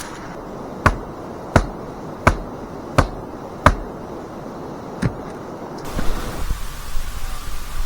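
A series of sharp knocks: five evenly spaced about two-thirds of a second apart, then one more after a pause. A steady hiss sets in near the end.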